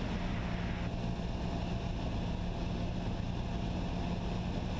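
Cessna 172SP's four-cylinder Lycoming engine and propeller droning steadily in flight, heard inside the cabin. A hiss in the upper range drops away about a second in.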